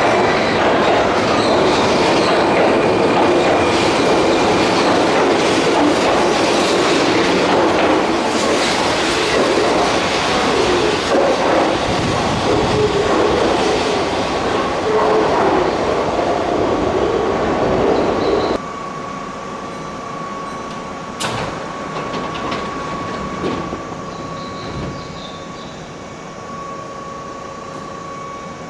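Keihan electric train running along the platform of an underground station, loud and steady. The running noise stops abruptly about two-thirds of the way through, leaving a quieter hum with a steady high tone.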